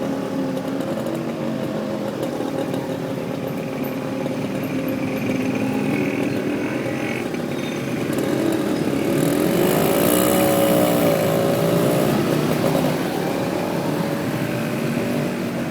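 Motorcycle taxi's engine running while riding, heard from the pillion seat with road and wind noise. About nine seconds in it gets louder and its pitch rises and falls as the bike speeds up and eases off.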